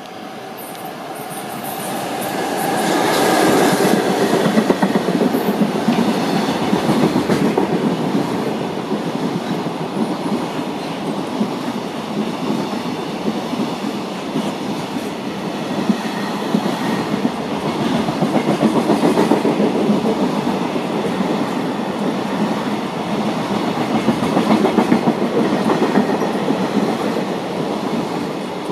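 A freight train hauled by an EF66 electric locomotive rolling past, its wagons' wheels clattering over the rail joints. It grows louder over the first few seconds, then stays steady.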